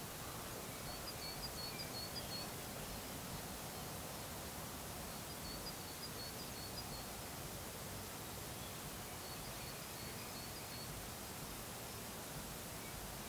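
Steady outdoor background hiss with a small bird singing: a short, quick run of high notes repeated about every four seconds.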